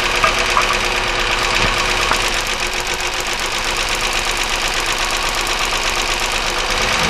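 1999 Chevy Malibu's 3100 V6 idling steadily with an internal knocking noise, which the owner says doesn't sound like rod knock and is trying to place in the top or bottom end.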